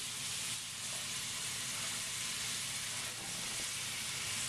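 Diced vegetables and onion sizzling steadily in a stainless steel skillet on a gas range.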